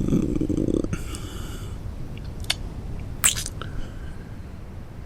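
Close-up kissing and mouth sounds: a short low hum, then two sharp lip smacks about two and a half and three and a quarter seconds in, over a steady low wash of ocean-wave background.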